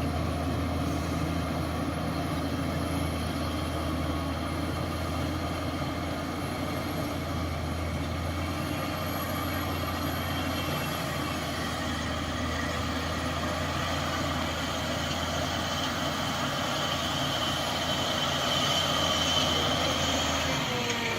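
Heavy diesel engine of earth-moving machinery running steadily, a constant low hum with a rushing noise over it, growing a little louder near the end.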